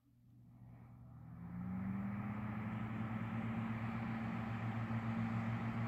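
1977 Mitsubishi New Compact E-20SH3 exhaust fan starting up. The motor hum and air noise grow louder, and a tone rises in pitch over the first two seconds as the blades come up to speed. It then runs steadily with a low hum over a rush of air.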